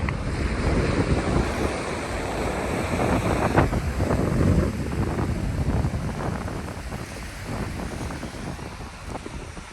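Ocean surf washing in along the shore, with wind buffeting the microphone. A wave swells louder about three to four seconds in, then the wash eases off.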